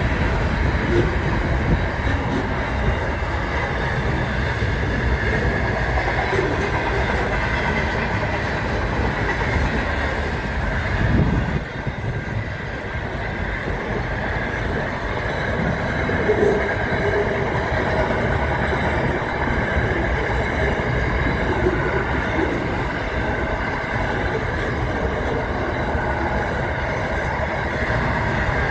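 A train running along the track: steady wheel-on-rail noise, with a brief louder swell about eleven seconds in.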